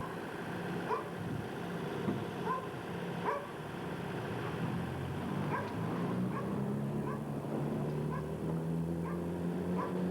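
An animal's short, high calls, about a dozen of them at irregular intervals, over a steady low hum whose pitch shifts partway through.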